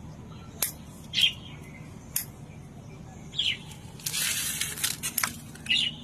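Chillies being picked by hand: a few sharp clicks and about a second of leafy rustling about four seconds in, with short high chirps between them.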